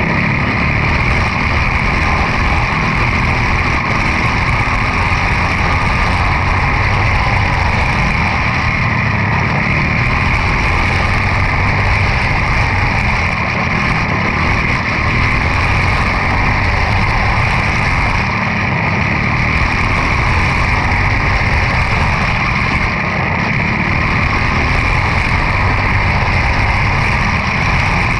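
Quarter midget race car's single-cylinder Briggs & Stratton Animal engine running steadily at racing speed.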